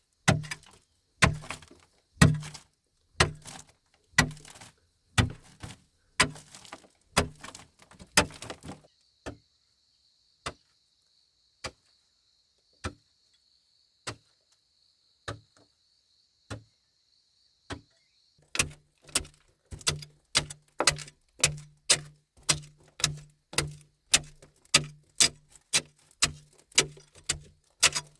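Repeated striking blows, each a sharp knock with a dull thump, about one a second. A long pause follows with only occasional single knocks and a faint steady high hum. Then the blows resume faster, about two a second.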